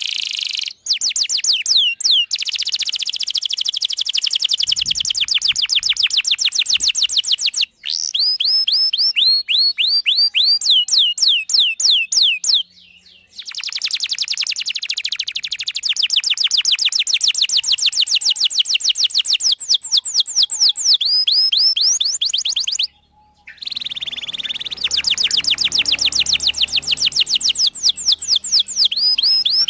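Domestic canary singing a long, rapid trill of repeated chirps, many notes a second, in extended phrases broken by brief pauses.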